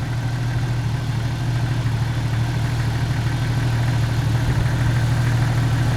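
Jeep TJ engine idling steadily with an even low hum.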